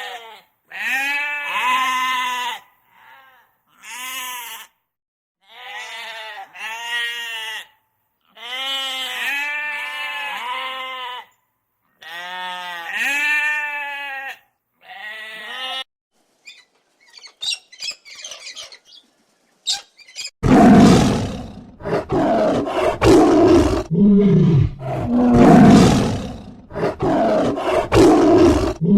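Bleating livestock, repeated calls about a second long each, for the first sixteen seconds or so. About twenty seconds in, a large animal starts loud, low, rough calls that go on to the end.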